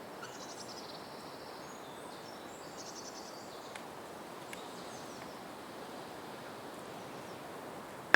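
Steady rural outdoor ambience with a soft hiss, and a small bird giving quick high trills twice in the first few seconds. A single sharp click comes at the very end.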